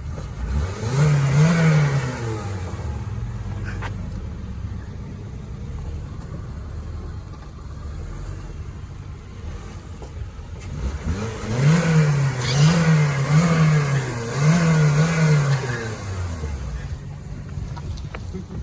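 2007 Honda Civic EX's stock exhaust on its 1.8-litre R18 four-cylinder engine, idling and being revved. There is one rev about a second in, then a quick run of four revs about halfway through, each time settling back to a steady idle.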